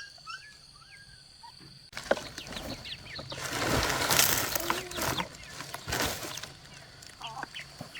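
Small birds chirping briefly, then a louder stretch of rustling with scattered knocks and scrapes, with a few chirps again near the end.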